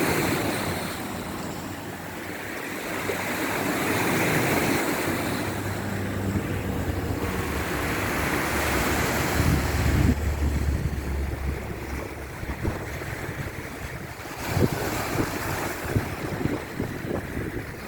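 Sea waves surging and washing in slow swells, with wind on the microphone. A low hum runs for a few seconds in the middle, and the water turns choppier and splashier near the end.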